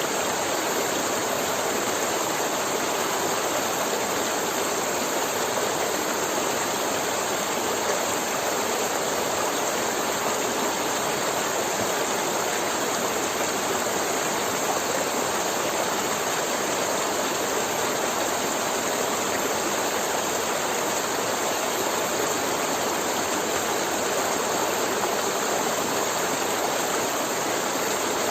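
River water flowing and splashing over rocks, a steady rushing.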